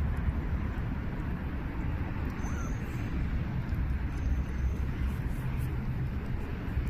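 Steady low rumbling noise throughout, with two faint, brief high-pitched squeaks near the middle.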